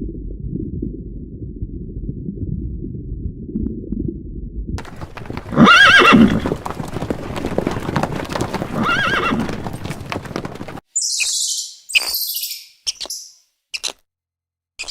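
A horse whinnying twice, loud arching calls, after several seconds of muffled low hoof clopping. Short high chirps begin near the end.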